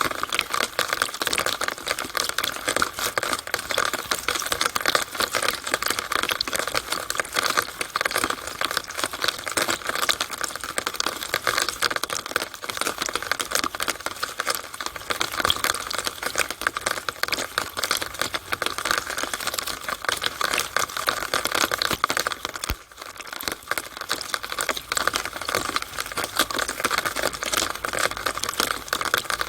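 Rainwater running and dripping through a downspout: a dense, steady patter of small drops and splashes, with a momentary lull about three-quarters of the way through.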